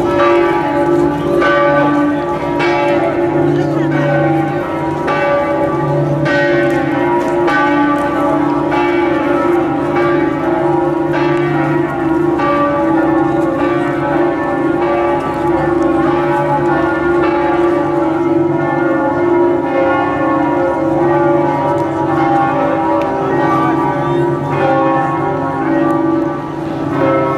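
Church bells pealing: several bells struck over and over in an irregular sequence, their ringing tones overlapping continuously.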